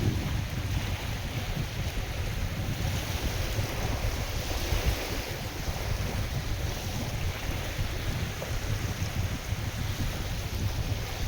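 Wind gusting over the microphone with a steady low rumble, over the hiss of wind-driven waves on a lake.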